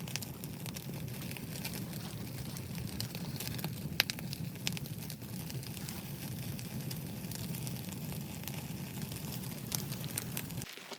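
Wood fire crackling, with scattered sharp pops over a steady low rumble. It cuts off suddenly just before the end.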